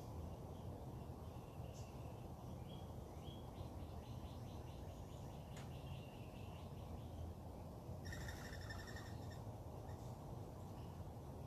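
Wild birds calling faintly over a steady low background rumble: scattered chirps, a quick run of repeated notes a few seconds in, and a harsh buzzy call lasting about a second later on.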